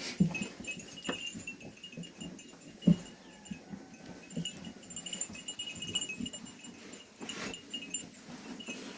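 Sheep bells jingling irregularly as the flock moves, with scattered low knocks.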